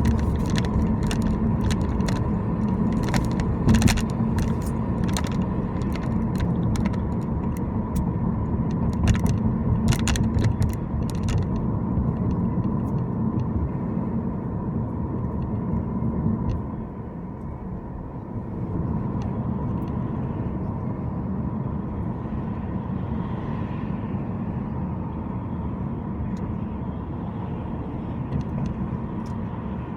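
Car driving, a steady rumble of engine and road noise, with a run of sharp clicks and ticks in the first ten seconds or so and a brief dip in level partway through.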